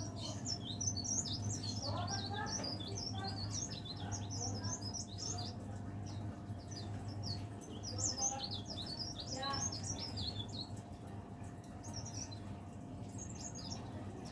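Cikrak daun (leaf warbler) singing a fast, twittering song of high chirps in two long runs with a short break, then a few scattered notes near the end. A steady low hum runs underneath.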